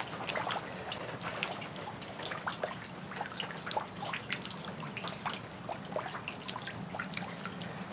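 Rain dripping and pattering: many small, irregular drops, with a faint steady hum underneath.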